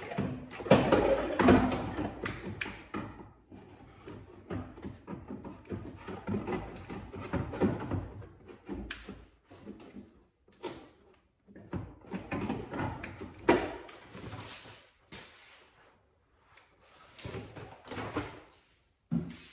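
Irregular clunks, scrapes and rattles of hard parts being handled and fitted by hand during a blower motor installation. The noise comes in spells, loudest at the start and again past the middle, with quieter gaps between.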